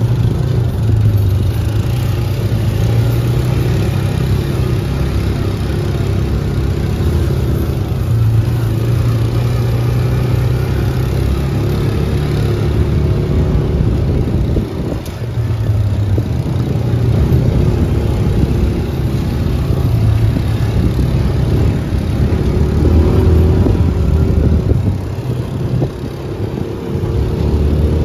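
UTV (side-by-side) engine running under way, its pitch rising and falling with the throttle, easing off briefly about halfway through and again near the end.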